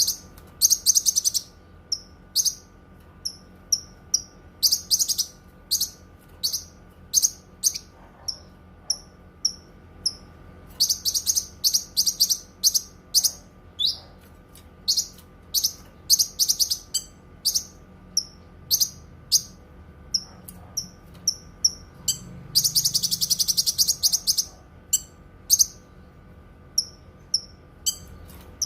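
Cucak kinoi songbird singing: short, high, sharp chirps repeated every half second or so, broken by rapid trills, the longest about two seconds long a little over three-quarters of the way through.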